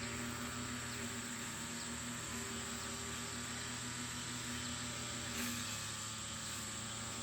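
Steady high-pitched insect drone, crickets or similar, over a faint low hum that stops about six seconds in.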